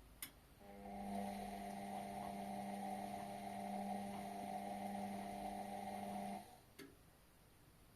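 Indesit washing machine near the end of its cycle: a click, then a steady electric hum for about six seconds that cuts off sharply, followed by another click.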